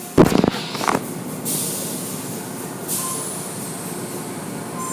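Automatic car wash machinery running with a steady rumble. A loud clunk comes just after the start, then a hiss of spray from about 1.5 to 3 seconds in.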